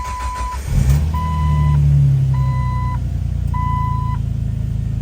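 Jeep inline-six engine cold-starting after sitting for three days: it catches about a second in, its speed rises briefly, then it settles into a steady idle. A vehicle warning chime beeps four times in an even rhythm and stops near the end.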